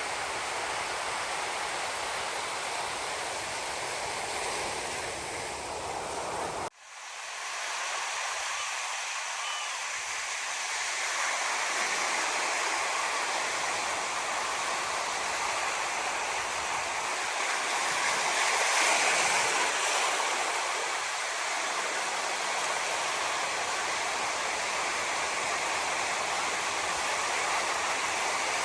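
Ocean surf: a steady rush of breaking waves washing on the shore. About seven seconds in, the sound cuts out abruptly and fades back in, and a wave swells louder a little past the middle.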